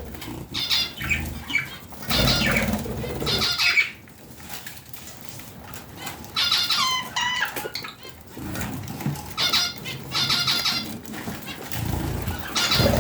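Budgerigars chirping and warbling in quick bursts of short, fluttering notes, with noisy stretches of wing flapping or rustling about two seconds in and near the end.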